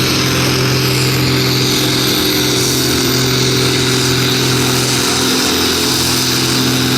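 Competition pulling tractor's engine running loud at steady, high revs, the pitch holding level throughout, as during a pull down the track.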